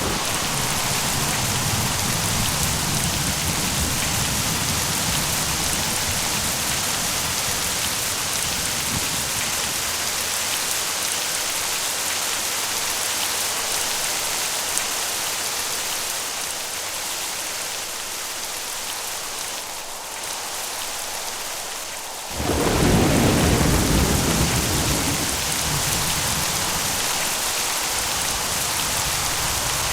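Steady rain, with low rolling thunder in the first several seconds and a sudden loud thunderclap about three quarters of the way through that rumbles away over a few seconds.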